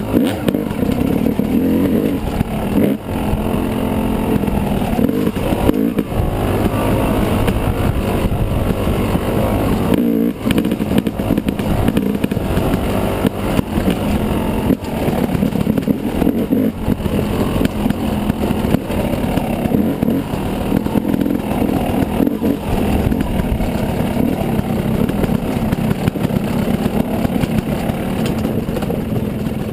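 Yamaha 250 dirt bike engine running under throttle while riding, its note rising and falling with the throttle, with brief drops in revs a few times.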